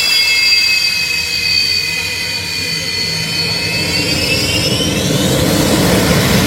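Jet engine running with a high turbine whine that dips slightly and then rises steeply about four to five seconds in, while a rushing roar grows beneath it: the engine is spooling up to high thrust.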